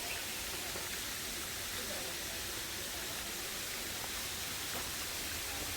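A steady, even hiss of outdoor noise, with faint voices in the background.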